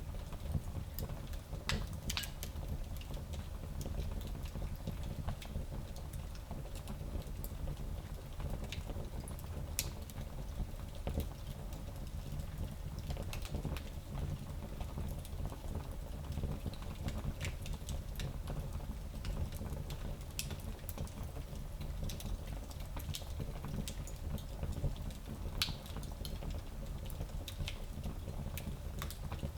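Wood fire burning in a small fireplace: a low, steady rumble with scattered sharp crackles and pops every few seconds.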